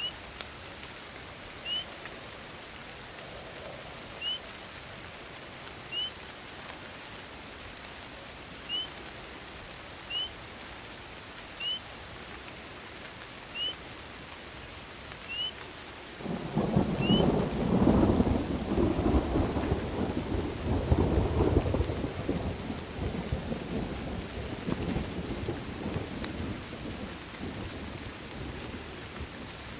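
Steady rain hiss with a short, high, rising chirp repeated about every one to two seconds. About sixteen seconds in, a loud rolling rumble of thunder starts suddenly and slowly dies away.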